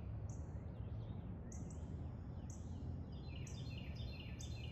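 Birds chirping in quick runs of short high notes that each drop in pitch, over a steady low background hum.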